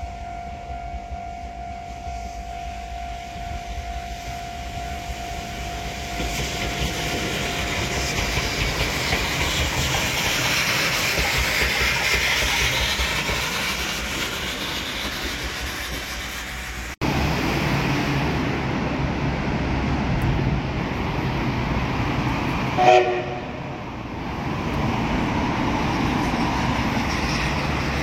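Electric commuter train running along the track, with a steady rolling noise that swells and eases. A short horn blast sounds near the end.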